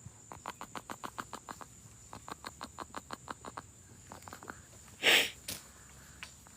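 A pet monkey making soft "putt-putts": a run of quick, quiet clicks several a second that slows and thins out, with one louder puff of noise about five seconds in. Crickets keep up a steady high hum behind it.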